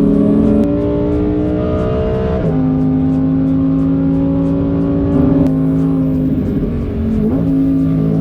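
Lamborghini Huracán's V10 engine under hard acceleration, heard from inside the cabin. Its pitch climbs through a gear, drops sharply about two and a half seconds in as it shifts up, and runs on strongly; near the end it dips and wavers briefly before settling again.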